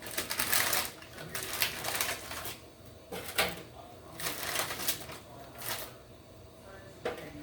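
Kitchen handling noise: several irregular bursts of rustling and light clicking and clattering.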